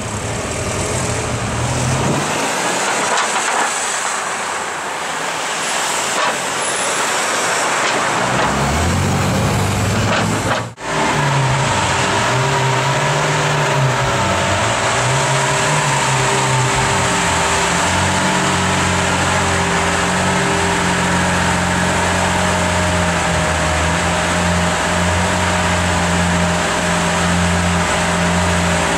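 Lamborghini Aventador LP700-4's V12 in street traffic, rising in pitch as it pulls away. About eleven seconds in the sound cuts to the V12 idling in an enclosed parking garage. The idle wavers slightly in pitch at first, then holds steady.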